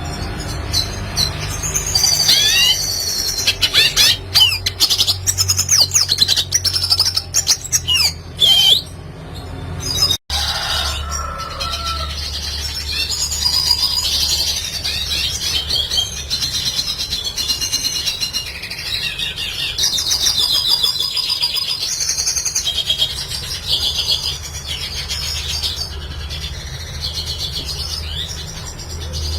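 Red siskin singing a fast, continuous twittering song of rapid high sweeping notes and trills. The song cuts off abruptly about ten seconds in and resumes at once, denser, over a steady low hum.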